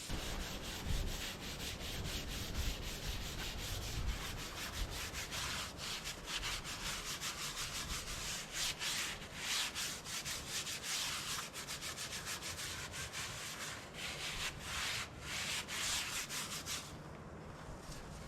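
Quick, continuous hand-scrubbing strokes on the metal of a backhoe's front weight, scuffing the surface clean for paint. The strokes stop about seventeen seconds in.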